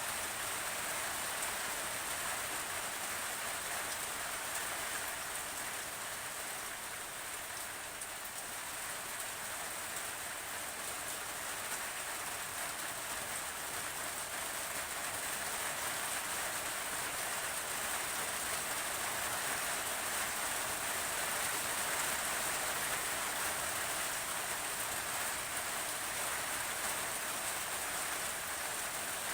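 Steady rain falling on a surface, an even hiss of drops that holds at the same level throughout.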